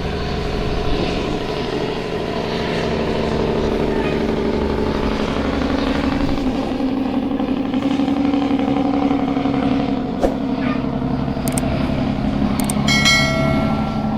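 Heavy truck's diesel engine running steadily at an even pitch, with a short high squeal near the end.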